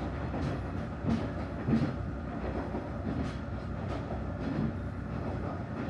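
Tadami Line diesel local train running along the track, with the steady noise of the ride and a series of low, irregular knocks from the wheels passing over rail joints.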